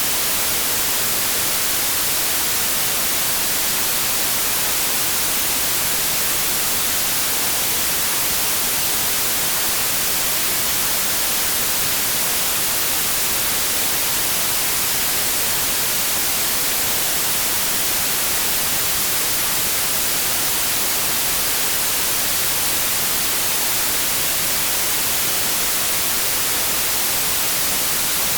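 Steady white noise: an even, unchanging hiss like static, with no breaks or changes.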